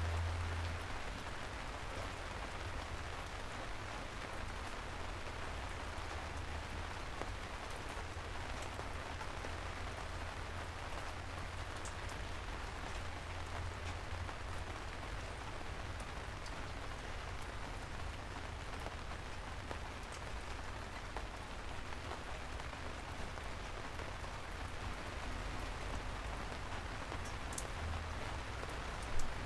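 Steady rain falling, an even hiss with scattered drop ticks and a low rumble underneath that is strongest at the start. There is one brief, louder sharp sound just before the end.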